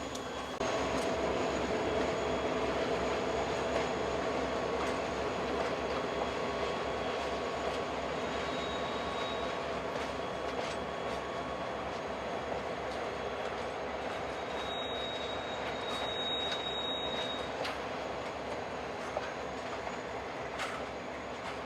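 Passenger train hauled by a pair of F40 diesel locomotives rolling past, wheels clicking over the rail joints with a thin, steady squeal.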